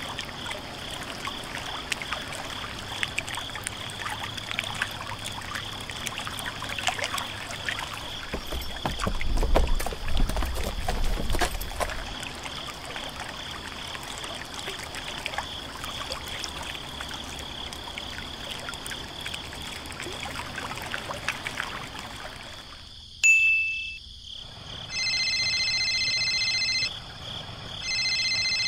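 Water trickling and splashing, heaviest about a third of the way in with a low rumble under it. Near the end a telephone ring tone sounds twice, after a short beep.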